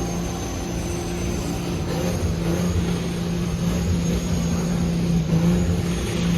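Diesel truck engine running with a steady drone that holds one pitch.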